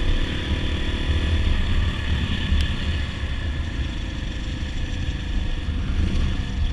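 Dirt bike engine running steadily at road cruising speed, with a heavy low rumble of wind noise on the riding microphone.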